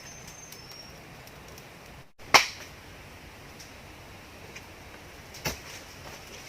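Two sharp snaps or knocks: a loud one a little over two seconds in and a softer one about three seconds later, over faint scattered ticks, with a short high chirp at the start.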